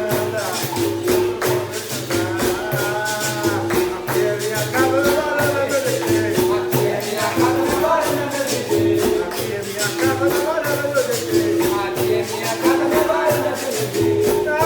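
Live capoeira music: a berimbau's repeated tone over a steady pandeiro rhythm and low drum beats, with singing over it.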